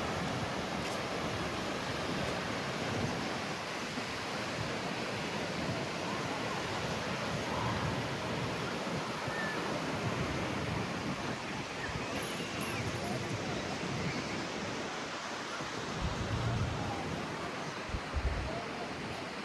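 Steady rush of strong wind and breaking surf, with gusts buffeting the microphone in low rumbles near the end.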